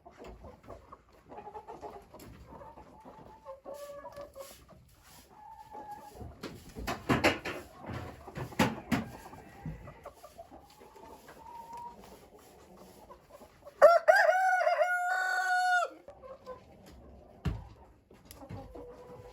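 Chickens clucking, with a few sharp knocks a third of the way in. About two-thirds of the way through, a rooster crows once, loudly, for about two seconds.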